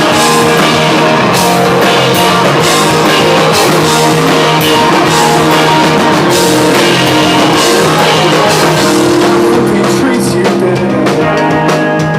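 Rock band playing loudly, with electric guitar and a drum kit.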